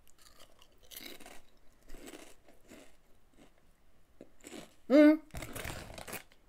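Crunchy chakalaka-flavoured potato chip being chewed with the mouth, about two crunches a second. About five seconds in there is a short voiced hum, then a breath blown out through pursed lips against the chilli heat.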